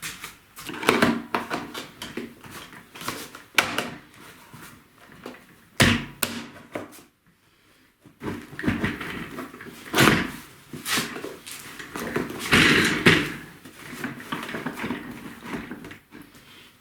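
Irregular knocks and clatter of office chair parts being handled during reassembly, with a short lull about seven seconds in.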